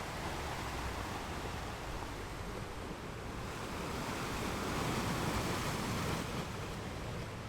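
Ocean surf breaking on rocks: a continuous wash of wave noise that swells to a peak about two-thirds of the way through and then eases off.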